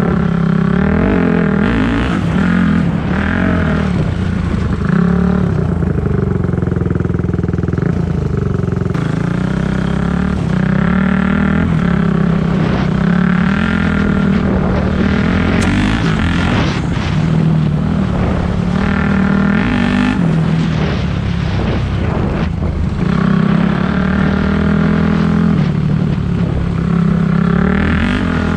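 Four-stroke dirt bike engine running while riding, its pitch rising and falling over and over as the throttle is opened and closed and the gears change.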